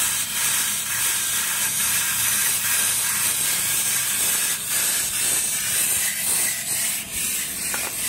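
A nest of chimney swift nestlings close to fledging, giving a continuous raspy, hissing chatter.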